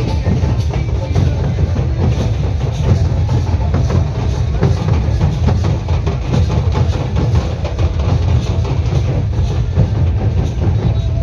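Loud music driven by drums and other percussion, a dense run of strokes over a heavy low beat.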